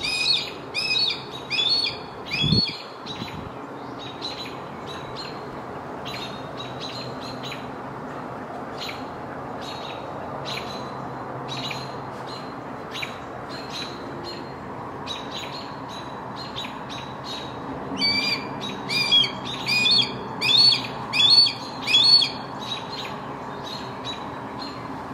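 Bird calling: series of short, repeated chirps, about two a second, strongest in the first few seconds and again from about 18 seconds in, with fainter chirps between, over a steady background hum. A brief dull thump comes about two and a half seconds in.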